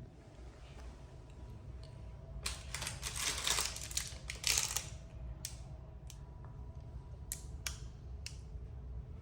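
Clatter of small hard objects for a couple of seconds, then five or six separate sharp clicks, over a steady low hum.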